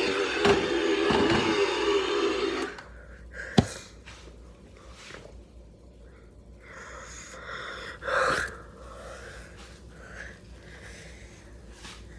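A motor running with a steady hum, which cuts off abruptly under three seconds in. A sharp click follows about a second later, then a short breathy burst near the end.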